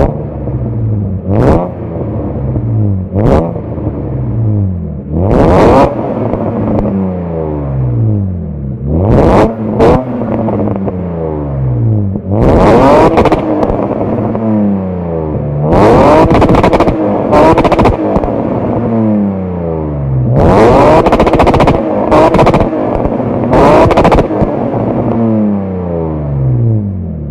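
BMW E34 engine revved repeatedly through its exhaust: more than ten quick throttle blips, each jumping up sharply and then sliding slowly back down toward idle.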